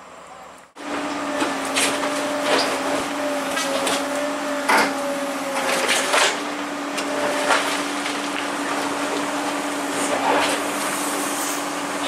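Machinery running with a steady, constant-pitched hum, starting abruptly about a second in, with scattered knocks and clatters over it.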